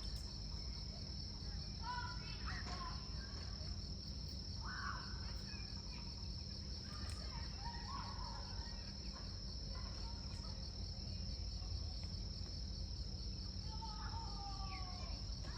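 Crickets chirping in a steady, high, finely pulsing chorus, over a low steady rumble. A few brief sliding calls sound now and then in the background.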